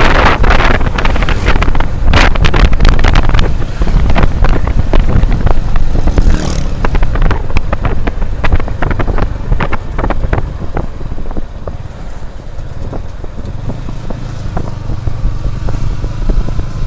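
Wind buffeting the action camera's microphone while riding a Yamaha Vixion R motorcycle, with the low rumble of its single-cylinder engine underneath. The buffeting eases somewhat about seven seconds in.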